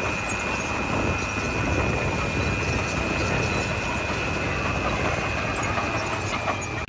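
Heavy diesel construction machinery running steadily: a continuous engine rumble with a steady high whine over it.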